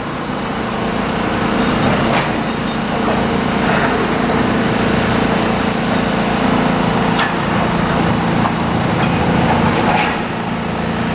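A demolition excavator's diesel engine running steadily, with a few sharp knocks and cracks from its crusher attachment working on the building.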